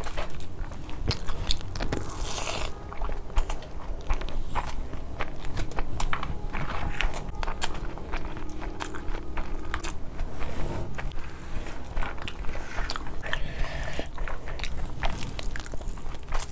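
Close-up eating sounds: chewing with many small wet clicks and smacks, and some crunching, as spicy Schezwan fried rice and chicken are eaten by hand.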